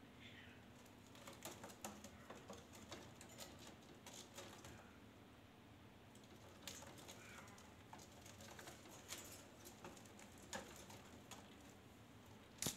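A parrot giving a couple of soft, short chirps amid faint scattered clicks and taps.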